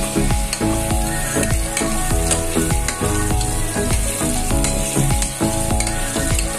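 Potato chunks sizzling as they fry in hot oil in a non-stick pot, while a metal spoon stirs them, knocking and scraping against the pot many times.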